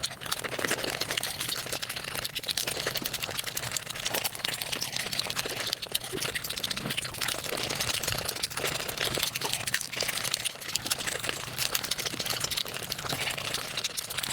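Eating sounds sped up to five times normal speed: chewing, crunching and handling of food run together into a dense, rapid crackle of clicks.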